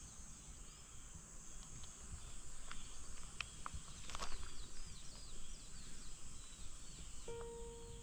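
Outdoor ambience of small birds chirping, with a run of quick repeated calls around the middle, over a low steady background noise. A music track comes in near the end.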